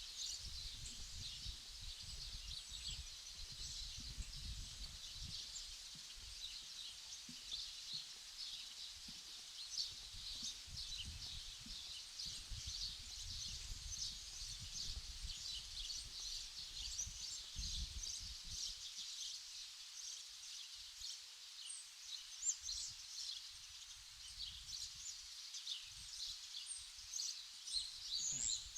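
Natural outdoor ambience: a dense, steady chorus of high, rapid chirps, over a low rumble that stops about two-thirds of the way through.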